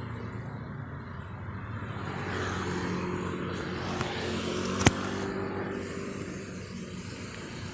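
Road traffic: a motor vehicle's engine running close by, growing louder for a few seconds and then fading as it passes, over steady road noise, with one sharp click about five seconds in.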